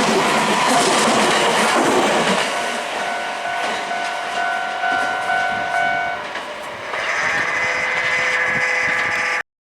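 Nankai Koya Line electric train passing a level crossing: wheel and running noise is loudest for the first two seconds, then gives way to a quieter running sound with steady high tones, which cuts off abruptly just before the end.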